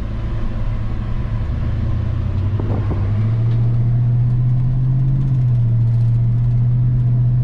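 Ford 302 (5.0-litre) V8 of a 1990 F-150 running under way with a steady low drone, rising in pitch and a little louder about three seconds in as the truck speeds up, then holding steady.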